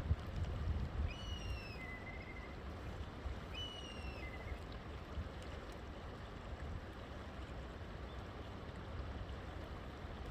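River water flowing in a steady rush. A bird calls twice in the first half, each call a short falling whistle followed by a lower, level note.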